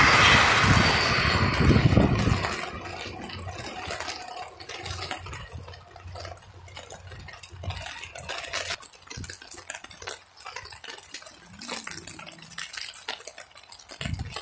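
A SEPTA electric commuter train passes and fades out over the first two seconds or so. Rain and wind noise then continue on the microphone, with a scatter of short crackles.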